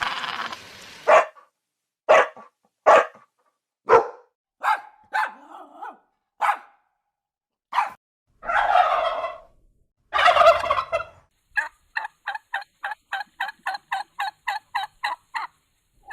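A series of short animal calls, a few seconds apart at first with two longer, louder calls in the middle, then a rapid, even run of about four short calls a second near the end.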